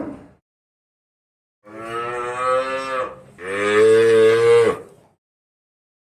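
Ox lowing: the tail of one moo fades out at the start, then come two long moos back to back, the second louder.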